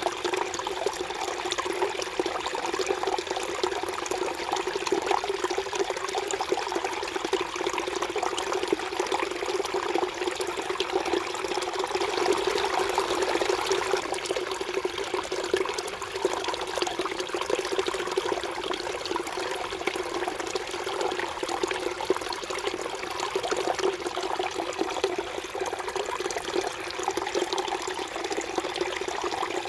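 A mountain stream burbling and trickling over rocks in a steady, continuous flow of water.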